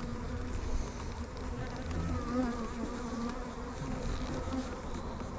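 Honeybees buzzing around an opened hive during an inspection: a steady hum from many bees whose pitch wavers.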